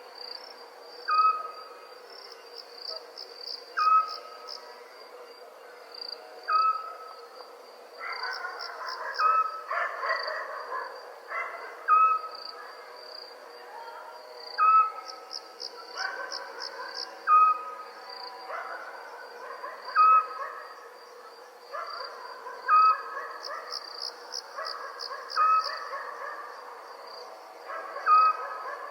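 Crickets chirping steadily in a high, pulsing trill, with a short owl call repeating about every three seconds, the loudest sound. Now and then a rougher, raspy sound comes through, most of all in the middle.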